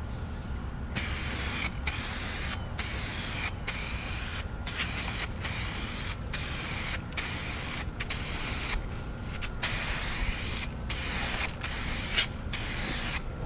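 SprayMax 1K primer aerosol can spraying in about a dozen short bursts, each under a second, with brief pauses between them, laying a full wet coat on a headlight lens.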